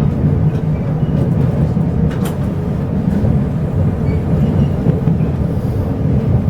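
Inside a Chu-Kuang Express passenger carriage: a steady low rumble from the train, with a single sharp click or clank about two seconds in.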